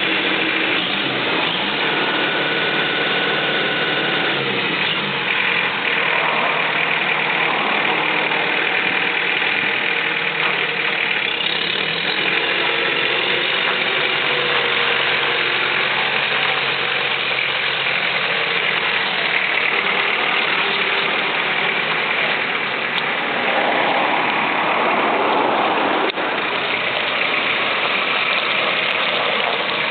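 Kubota M8200 tractor's diesel engine running steadily, with some mechanical rattle.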